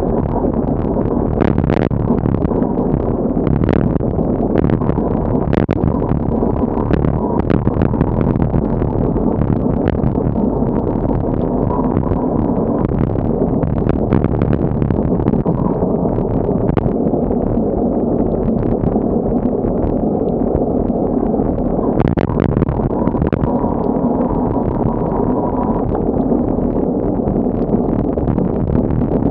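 Strong typhoon wind rumbling steadily on the microphone of a moving bicycle ride, with scattered sharp knocks and clicks.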